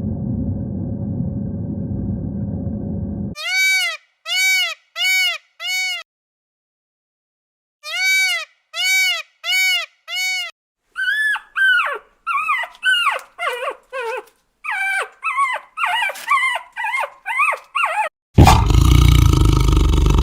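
A dog's high whimpering yips: two sets of four short calls that rise and fall in pitch, then a quicker run of shorter, higher yelps. A low rumbling noise stops about three seconds in, and a loud roar, like a lion's, starts near the end.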